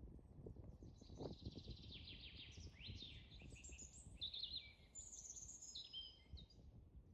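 Small birds chirping and singing in quick falling and rising whistled notes, several overlapping, over a faint low rumble.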